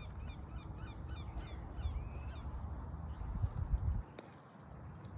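Birds calling: a quick run of short chirps over the first couple of seconds, over a steady low rumble that drops away about four seconds in.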